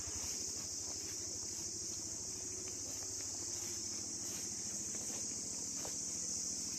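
A steady, high insect chorus, with a few light clicks near the end.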